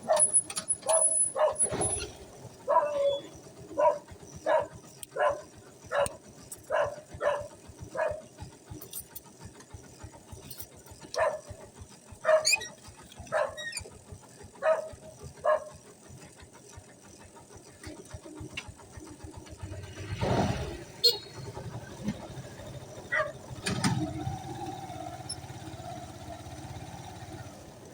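An animal barking over and over, short sharp calls about every two-thirds of a second in two runs, with a pause between them and a few louder thumps or rustles later on.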